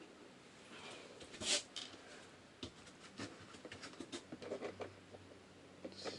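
Faint clicks and scrapes of plastic ceiling trim around an RV's air-conditioner being handled by hand, with one louder scrape about one and a half seconds in. A low steady hum comes in about halfway through.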